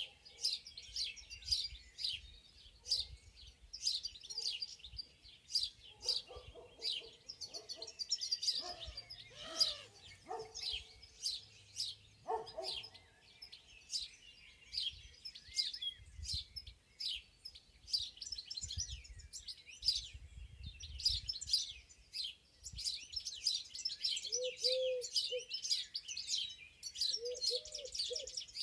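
A chorus of several songbirds chirping and trilling without pause, with rapid high calls. Near the end a dove starts cooing, a low call repeated in short phrases.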